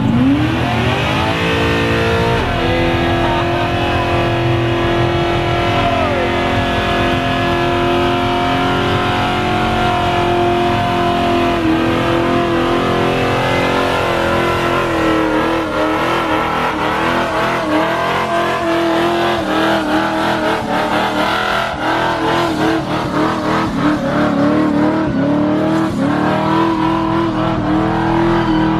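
Car engine revving up in the first two seconds and then held at high, steady revs for a long time during a burnout, the pitch wavering in the second half as the revs are worked.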